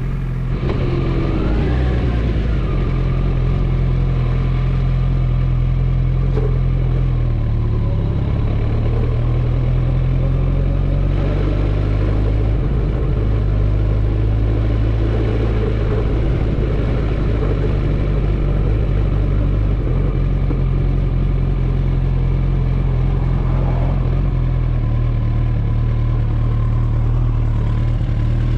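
Kawasaki ZX-14R's inline-four engine running under way, its pitch rising and falling as the rider changes throttle and gears.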